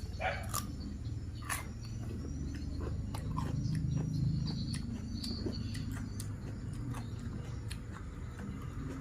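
Eating sounds of someone chewing chicken and meatballs: wet chewing and mouth clicks, over a steady low hum.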